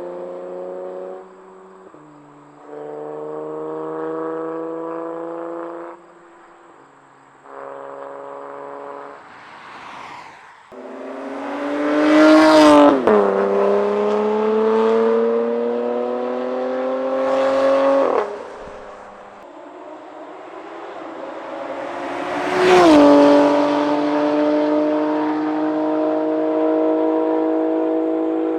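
BMW M3/M4's S55 twin-turbo inline-six through an equal-length titanium valved exhaust with 200-cell downpipes, accelerating hard past in flybys. A few short clips of the engine pulling come first; then the car passes twice, about 12 and 23 seconds in, the pitch climbing as it accelerates and dropping sharply as it goes by, with a gear change in between. The exhaust valves are open for the two pass-bys.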